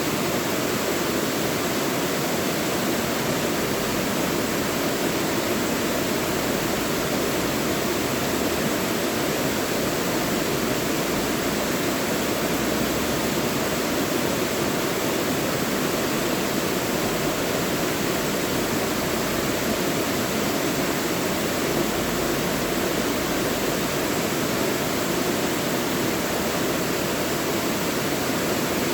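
Mountain stream rushing through a rocky valley: a dense, steady roar of water without breaks or single events.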